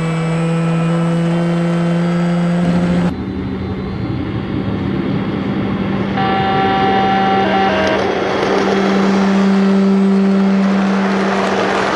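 Sound card of a PIKO G-scale Taurus electric locomotive model playing its running sounds as it pulls away slowly. Steady whining tones change abruptly about three seconds in, another set of tones comes in briefly after six seconds, and a hissing running noise builds toward the end.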